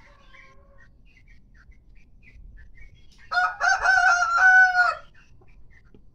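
A kampung (Indonesian native) rooster crowing once, loud and held for about a second and a half, starting a little over three seconds in. Fainter short bird calls come before it.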